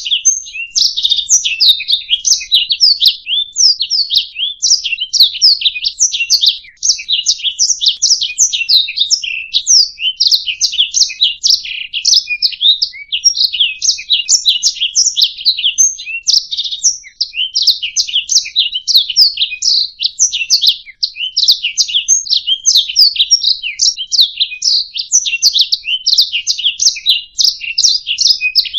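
Domestic canary singing a long, continuous song of rapid high chirps and trills, with brief pauses about 7, 17 and 21 seconds in.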